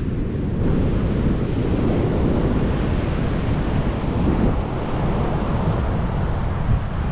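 Wind rumbling on the microphone over the steady wash of Atlantic surf on the beach.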